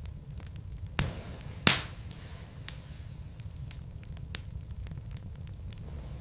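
Wood fire burning in a fireplace: a steady low rumble with irregular sharp crackles and pops of the logs, two louder pops about a second and a second and a half in.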